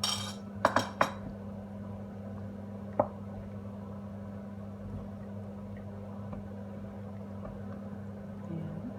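A utensil clinking a few times against the cooking pot in the first second, and one more sharp click about three seconds in, over a steady low hum.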